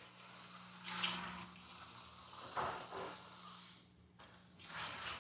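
An HO slot car's small electric motor hums faintly and steadily with the power connected, stopping near the end. Several brief rustling, scraping handling noises come in between.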